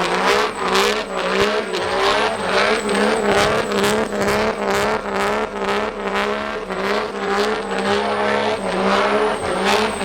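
Diesel truck engine running hard and loud, with a wavering, squealing tone over it and many short sharp cracks.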